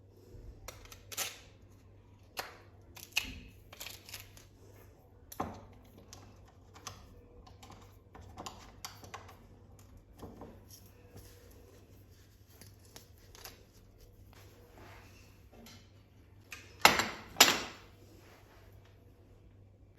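Scattered light clicks and taps of small kitchen objects being handled, with two louder clacks close together near the end.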